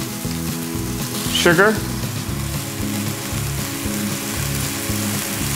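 Oysters sizzling steadily as they fry in oil in a nonstick frying pan, with the clicking of a hand pepper mill being turned near the start.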